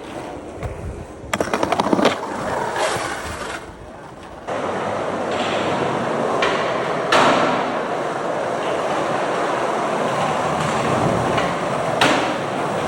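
Skateboard rolling, its wheels making a steady rumble, with a quick run of clicks early on and a couple of sharp clacks of the board hitting the ground.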